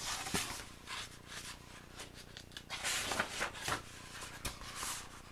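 Faint paper rustling and rubbing in a few soft bursts: the pages of a picture book being handled and turned.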